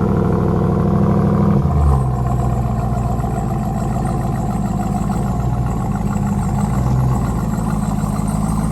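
Ram 1500 TRX's supercharged 6.2-litre V8 running at raised revs, then dropping back to a steady idle a little under two seconds in.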